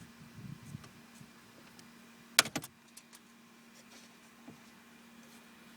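Plastic clicks from the HVAC control unit being pushed into the dash: light handling noise, then one sharp click about two and a half seconds in, quickly followed by a second and a few lighter ticks, over a steady low hum.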